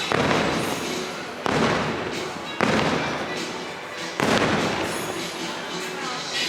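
Fireworks bursting: four sharp booms over about four seconds, each trailing off in a fading crackle, with the show's soundtrack music playing underneath.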